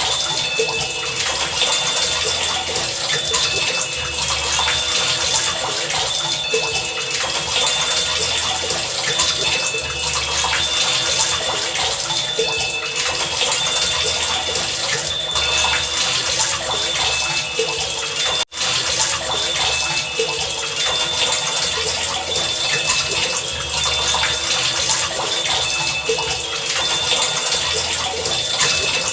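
Heavy rain falling steadily, a dense hiss of many drops, with faint short high tones repeating at even spacing. The sound cuts out for an instant about two-thirds of the way through.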